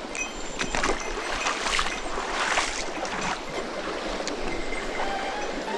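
Mountain stream rushing over rocks, with several sloshing splashes in the first few seconds, as of someone wading through the shallows.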